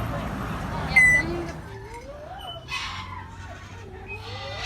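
Birds calling: a short sharp squawk about a second in, then wavering whistled notes sliding up and down, with more squawks near the end.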